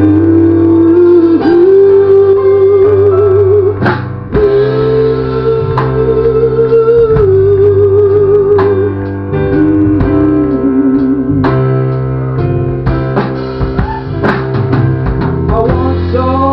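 Band playing an instrumental break: a sustained, wavering lead melody over guitar and a steady bass line.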